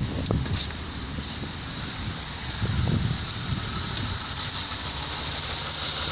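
Mazda CX9's 3.7-litre V6 idling steadily, with a short swell of low rumble about three seconds in.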